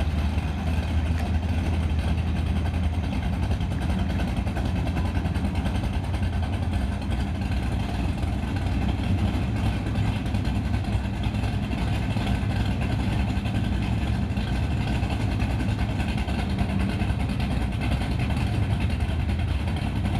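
Drag car engine idling steadily, a low even drone with no revving.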